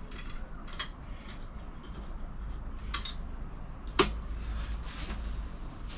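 Metal clamps being handled and fitted onto a sheet-steel panel: a few scattered metallic clicks and clinks, with one sharper knock that rings briefly about four seconds in.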